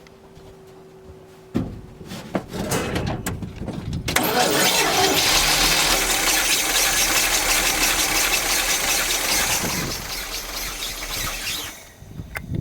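1969 Chevrolet C50 truck's big-block V8 being cranked by the starter, then catching about four seconds in and running steadily on fuel poured down the carburettor, its first start after decades parked. The sound drops away near the end.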